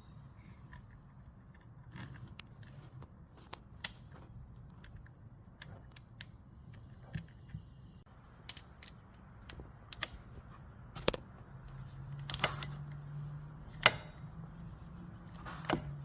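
Scattered light metal clicks and taps as the oil drain plug is threaded back into the aluminum engine case of a Honda Monkey and snugged down with a tool, with a faint low hum in the last few seconds.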